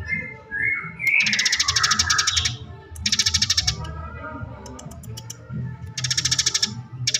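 Eurasian tree sparrows in agitated, fighting chatter: three long, fast rattling rolls, the first and longest about a second in, with shorter chirps between them.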